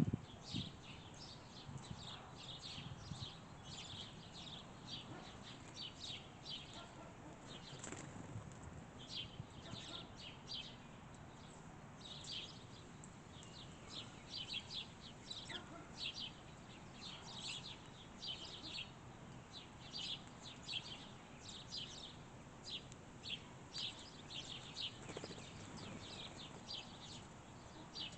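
Small songbirds chirping: a faint, steady run of short high calls, several a second.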